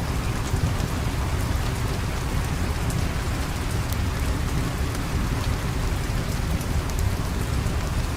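Steady rain ambience: an even hiss of rainfall over a deep, constant rumble, with scattered sharp ticks throughout.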